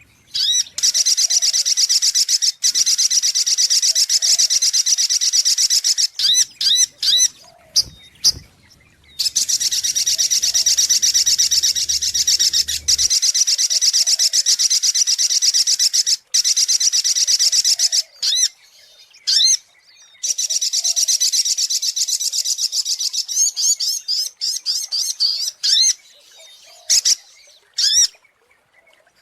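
Little spiderhunter (sogok ontong) song played as a lure call: long runs of rapid, high-pitched repeated notes lasting several seconds each, broken by short gaps and clusters of sharp separate chirps.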